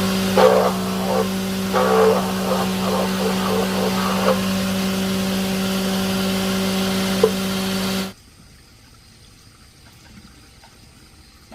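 A machine runs with a steady hum at one constant pitch, with short irregular sounds over it in the first few seconds. It cuts off suddenly about eight seconds in, leaving a faint background.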